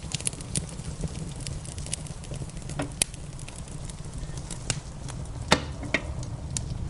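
Wood fire in a fireplace crackling steadily over a low rumble, with two sharper pops about 3 and 5.5 seconds in, and rain pattering beneath it.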